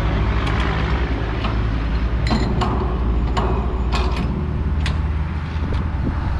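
Metal clanks and clicks of a tanker truck's hose couplings being undone and refitted as the hose is swapped to another compartment, about ten sharp knocks, over the steady low drone of an engine running.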